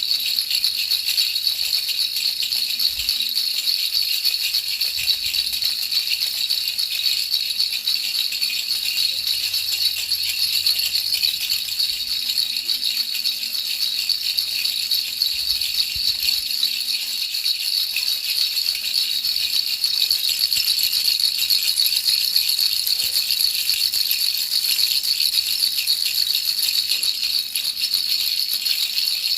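A baby rattle shaken without pause, giving a dense, even, high-pitched rattling hiss used as white noise for a baby's sleep.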